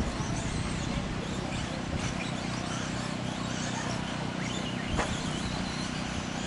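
1/10-scale electric 2wd RC stadium trucks racing on a dirt offroad track, their motors whining up and down as they accelerate and brake. There is a sharp knock about five seconds in, like a truck landing or hitting something.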